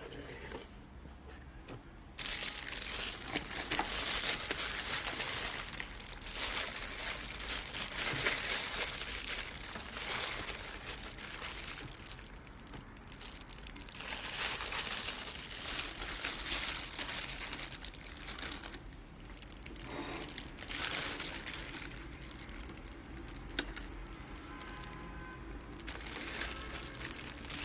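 Crinkling and rustling of something being handled, starting suddenly about two seconds in and going on unevenly, louder and softer by turns.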